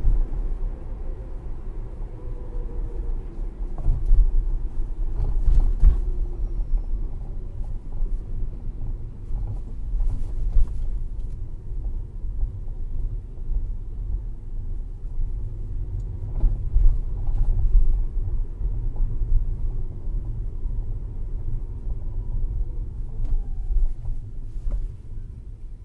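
Tesla Model S cabin at low speed: steady road and tyre rumble with scattered clunks and rattles from the underbody suspension, the rattle that the owner counts as a fault in this car. The rumble fades near the end as the car slows.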